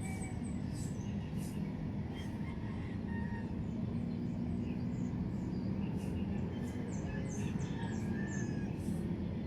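Birds chirping in short, high, quick calls, many of them quick downward sweeps, thicker in the second half, over a steady low rumble of background noise.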